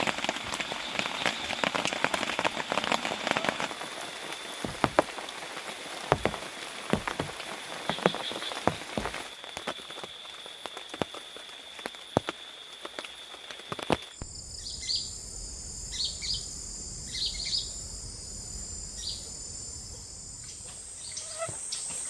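Heavy rain falling, with big drops striking close by, over a steady high whine. About fourteen seconds in it cuts to quieter rainforest ambience: a steadier, higher whine with short chirps.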